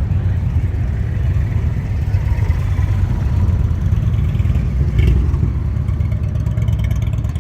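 Motorcycle engines running with a steady low rumble, with a brief sharp click about five seconds in.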